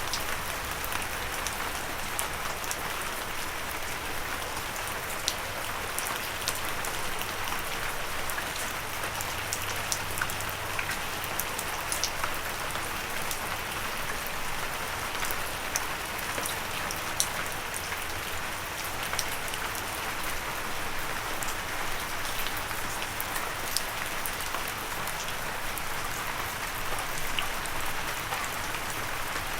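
Steady light rain: an even hiss of rainfall with many separate drops tapping close by.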